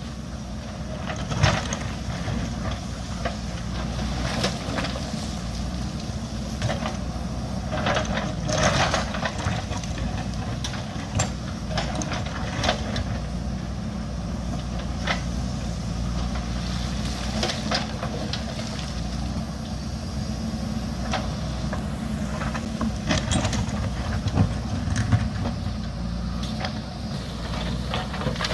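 JCB backhoe loader's diesel engine running steadily under load, with repeated sharp knocks and scrapes of the bucket working against rock and soil.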